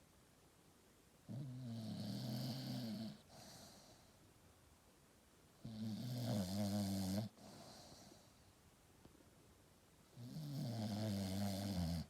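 Staffordshire bull terrier snoring in its sleep: three drawn-out snores, each lasting one and a half to two seconds and coming about every four to five seconds.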